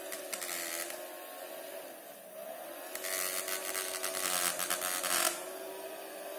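Small electric motor spinning a fan inside a homemade plastic-bottle vacuum cleaner, running with a steady whine whose pitch dips briefly a few times. Two bursts of rushing, scratchy noise come over it, a short one near the start and a longer, louder one from about three seconds in that cuts off suddenly.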